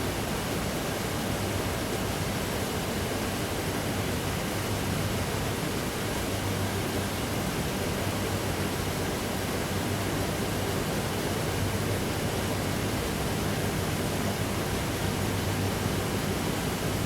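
Steady, even noise with a faint low hum underneath, unchanging throughout, with no distinct events.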